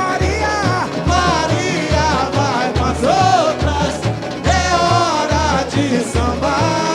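Samba-enredo sung live by the samba school's singer over its bateria. A steady low drum beat drives the song.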